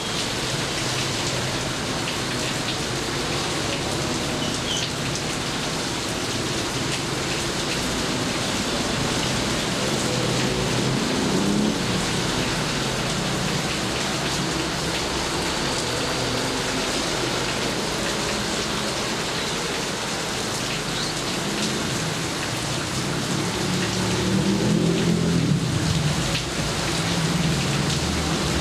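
Steady heavy rainfall hissing and pattering. A low rumble swells up about ten seconds in and again near the end.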